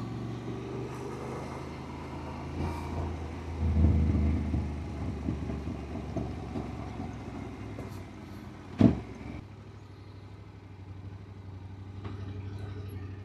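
Yamaha Ténéré 700's parallel-twin engine running as the motorcycle rides. It swells louder about four seconds in, there is a single sharp knock near nine seconds, and then it runs more quietly.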